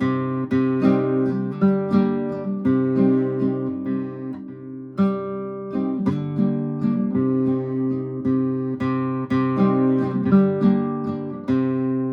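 Cordoba F7 nylon-string flamenco guitar strummed with the thumb: a run of chords about every half second, with a short lull partway through, and a last chord near the end left ringing.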